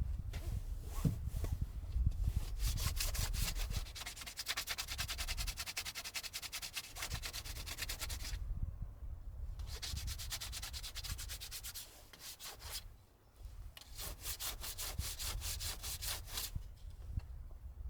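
Rapid, rhythmic back-and-forth rubbing strokes, like hand sanding or scrubbing, in three bouts of a few seconds each with short pauses between.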